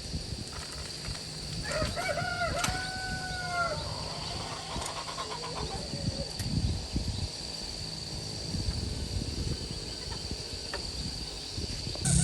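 A rooster crows once, a call of about two seconds starting near two seconds in. Behind it runs a steady high-pitched whine and low rumbling background noise.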